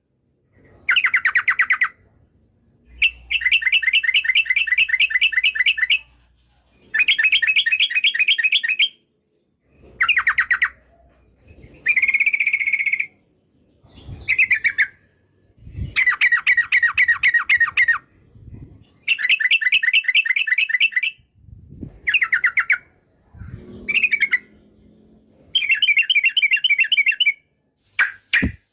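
Yellow-vented bulbul (trucukan) singing: repeated phrases of rapid, bubbly chattering notes, each one to three seconds long, with short pauses between them. Two short clicks come near the end.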